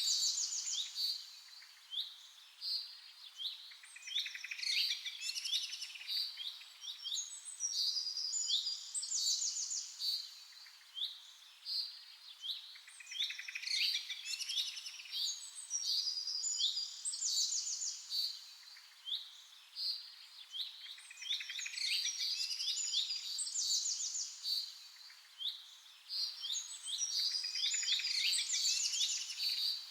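Songbirds chirping and singing, with short high chirps and quick trills overlapping in a continuous chorus.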